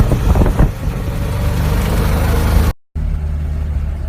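Vehicle driving, with steady low engine and road rumble under a broad rushing hiss. The sound cuts out briefly nearly three seconds in, then returns quieter, with the low rumble but without the hiss.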